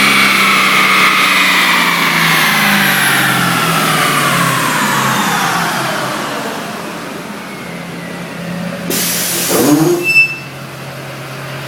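Twin-turbo Duramax diesel coming off a fifth-gear dyno pull. A high whine falls steadily in pitch over about seven seconds as the drivetrain spins down, while the engine drops back to a steady idle. A short loud hiss comes about nine seconds in.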